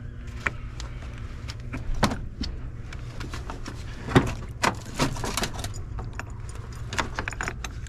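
Hand tools clinking and knocking against metal parts in an engine bay, in scattered single clicks and short clusters, over a steady low hum.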